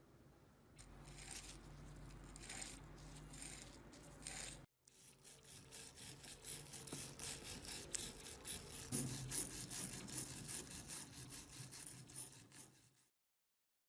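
Rapid repeated rubbing strokes, about three to four a second, as a rusty metal fan part is worked by hand to remove rust. A first shorter stretch over a low steady hum ends in an abrupt edit before the main run of strokes.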